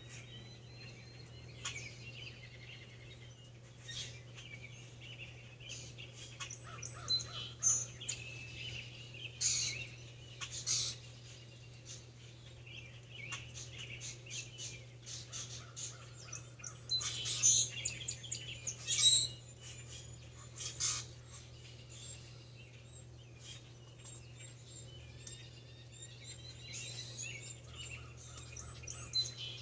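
Songbirds chirping and singing, with short calls and quick trills scattered throughout and the loudest bursts a little past the middle. A steady low hum runs underneath.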